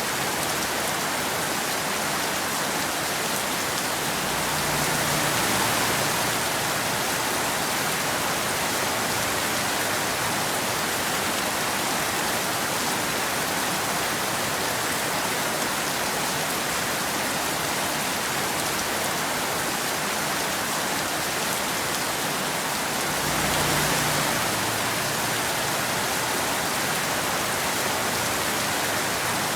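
Steady rain falling on a hard surface, an even hiss. It swells briefly twice, with a low rumble underneath: about five seconds in and again near the end.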